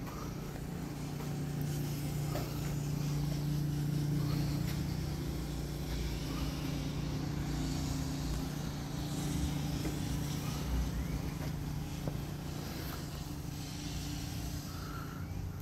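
Modified 1986 Mercury Cougar's engine idling steadily, a constant low hum with rumble underneath.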